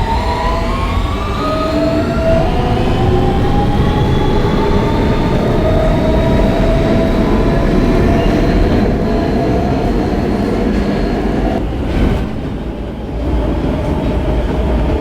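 Inside an R160B Siemens subway car pulling out, the AC traction motors whine in several tones that climb in pitch, then level off as the train cruises over the rumbling rails. About twelve seconds in the whine cuts out with a brief clunk, leaving the wheel-and-track rumble.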